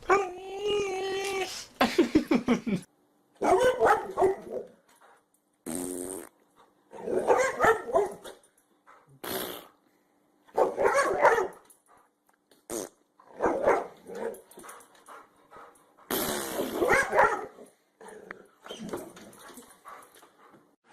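Dogs growling, barking and farting in a string of about a dozen short, separate sounds. The first, near the start, is a held sound at a steady pitch.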